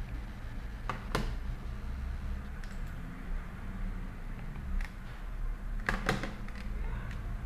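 A few light, sharp clicks of buttons being pressed, one pair about a second in and a small cluster near the end, over a low steady hum.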